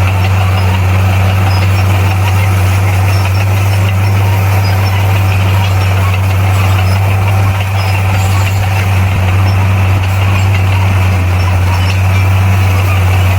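Bulldozer's diesel engine running steadily with a deep, even hum, dipping briefly about seven and a half seconds in.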